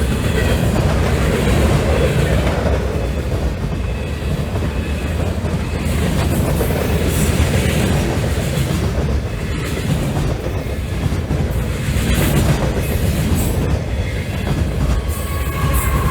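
Union Pacific freight train's cars rolling past, steel wheels on the rails with a steady rumble and clatter. A brief high squeal rises over it near the end.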